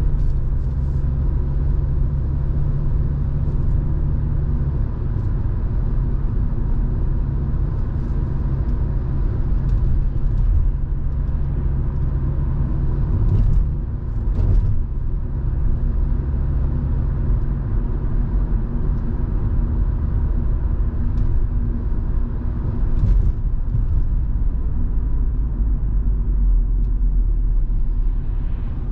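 Volvo V70 2.5T's turbocharged five-cylinder petrol engine and road noise heard from inside the cabin while driving: a steady low drone, its lowest note easing about five seconds in, with a few faint knocks.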